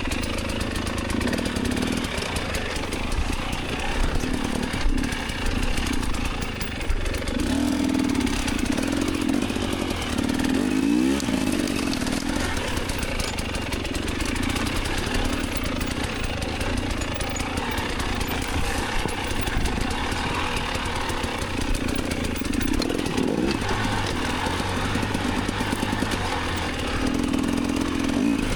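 Dirt bike engine running, its revs rising and falling again and again.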